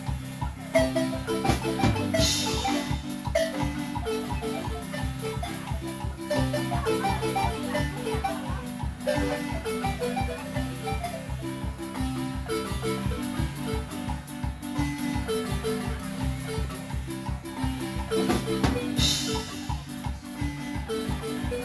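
Acoustic marimba playing a lively dance tune, with quick repeated mallet notes over a steady, evenly pulsing bass line.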